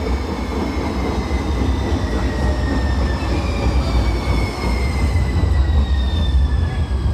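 A one-car Muni Metro Siemens light rail vehicle pulling into an underground station. It makes a heavy low rumble, and several high electric whines glide slowly down in pitch as it slows.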